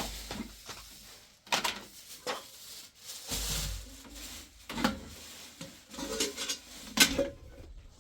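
Pots and metal utensils clattering: a handful of separate sharp knocks, the loudest near the end.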